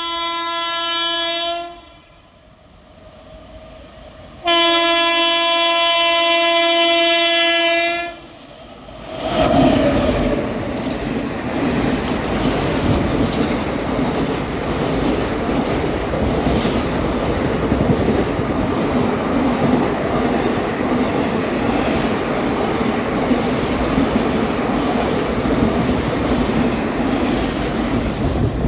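Indian Railways express train sounding its horn twice, a short blast and then a longer one of about three and a half seconds, then rushing past at speed with the steady clatter of coach wheels over rail joints.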